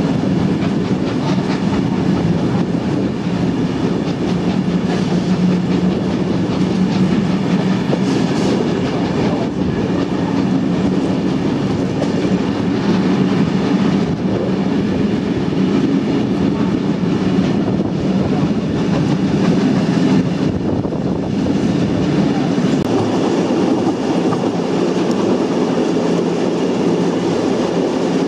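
Sydney double-deck electric suburban train running past, with a steady rumble of wheels on rail and a few scattered clicks.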